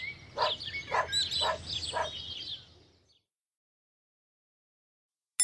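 Cartoon sound effects: a small bird chirping and twittering rapidly over a run of short, evenly spaced bursts about two a second, stopping about three seconds in. A single sharp metallic ding at the very end.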